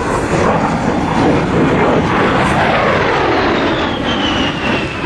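A-10 Thunderbolt II's twin TF34 turbofan engines in a loud pass, with a high whine that falls in pitch in the second half as the jet goes by.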